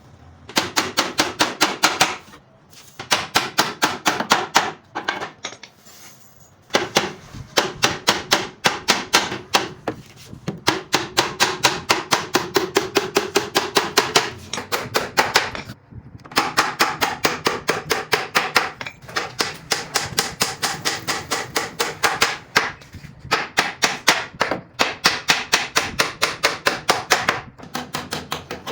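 Rapid, light hammer taps on wood, about six a second, in runs of a few seconds with short pauses between.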